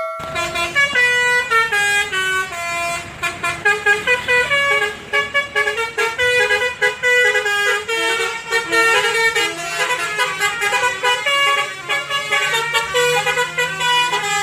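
Live band playing an instrumental intro: a fast melodic lead line of short notes over a steady bass, with no singing.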